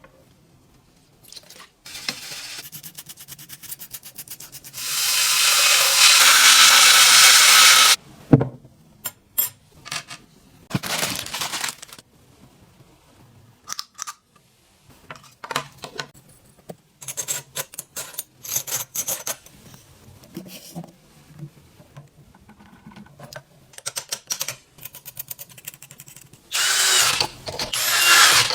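A power tool running in several bursts, the longest and loudest about five to eight seconds in and another near the end. Between the bursts come scattered clicks and knocks of parts being handled.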